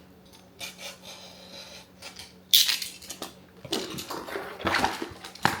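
Packaging being handled during an unboxing: a sudden loud rustle about halfway through, then irregular crinkling and handling noises.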